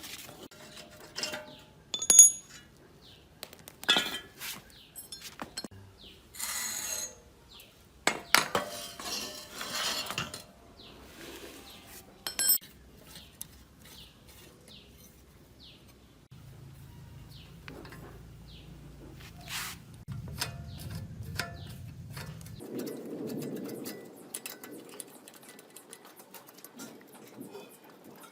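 Small metal engine parts and hand tools clinking and knocking as they are handled, with scattered sharp clicks and a few short scrapes. A low steady hum runs for several seconds in the second half.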